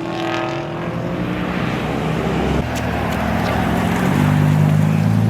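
Passing car engines and exhausts: a revving engine note fades away at the start, then a deep, steady exhaust rumble comes in louder about four seconds in.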